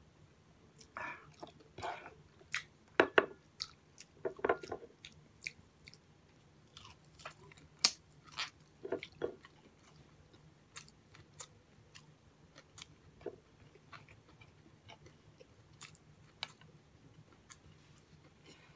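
Close-miked chewing and biting: wet mouth smacks and sharp clicks of a person eating with a full mouth, busiest and loudest in the first half, then sparser.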